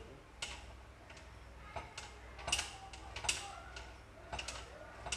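Irregular sharp clicks and knocks, about six in five seconds, from tools and engine parts being handled while a motorcycle engine is put back together.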